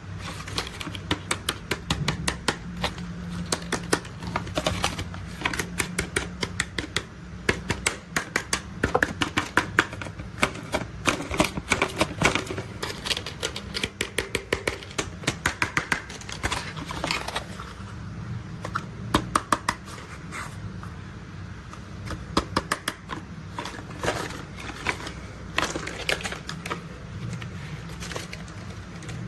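Plastic toy construction vehicles being handled, giving rapid clicks and taps in clusters, over a low steady hum.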